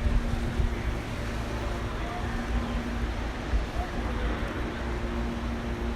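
Outdoor ambience: a steady low hum that fades out for a few seconds midway and then returns, over an uneven low rumble of wind on the microphone.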